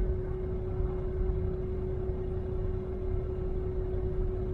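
Diesel truck engine running steadily at idle: a low, even rumble with a constant hum over it.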